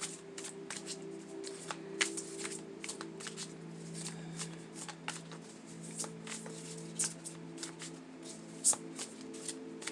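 A deck of tarot cards being shuffled by hand, with irregular crisp card clicks and slaps. Soft background music with sustained low notes plays underneath.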